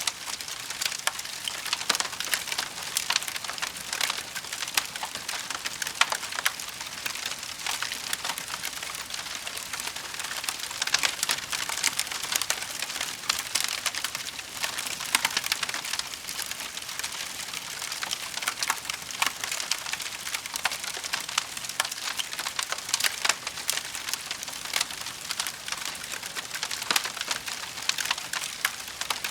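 Wood fire burning in a fireplace, with a steady stream of small sharp crackles and pops over a soft hiss.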